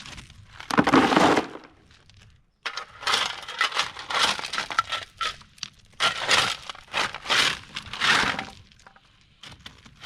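Crushed-stone ballast being scooped and tipped, the stones grating and rattling in about five separate bursts.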